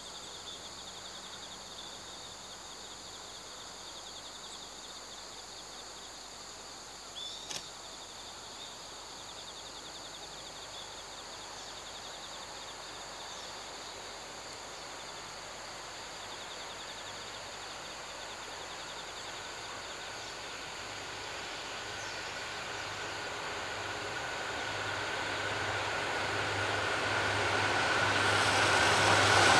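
An approaching EF81 electric locomotive hauling E26 sleeper coaches, faint at first and then rising steadily to a loud rumble of wheels on rail over the last ten seconds. A steady high trilling runs in the background.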